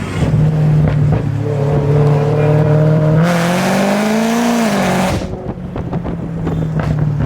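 Car engine running steadily, then revving up about three seconds in with a loud rush of exhaust noise, and dropping back to a steady run about two seconds later.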